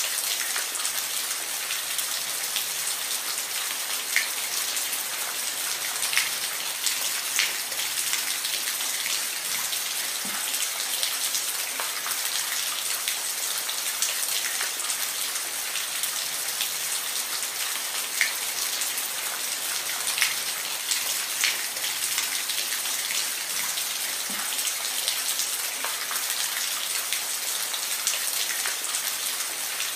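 Steady rain falling, a continuous hiss with scattered louder individual drops ticking on a surface.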